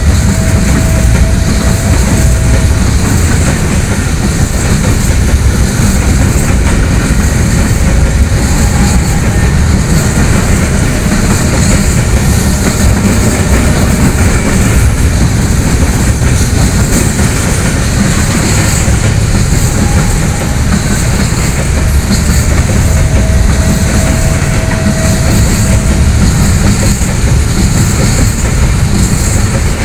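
Freight train of container-laden flat wagons passing close at speed: a loud, steady rumble and rattle of the wagons' wheels on the rails, with a clickety-clack over the rail joints.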